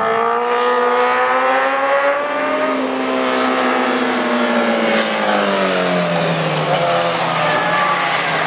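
A vehicle engine running hard as it passes close by. Its pitch climbs for the first two to three seconds, then slides steadily lower as it draws away.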